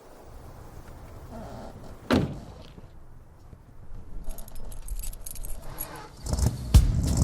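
Low background with a single sharp knock about two seconds in and a rapid jingling rattle from about four to six seconds. Heavy drum-like hits and a beat come in near the end.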